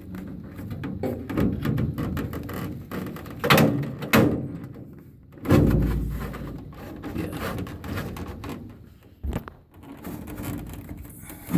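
Handling noise as a furnace air filter is forced into a cramped slot in the furnace cabinet: rustling and scraping, a few sharp knocks midway, then one heavier, deeper thump.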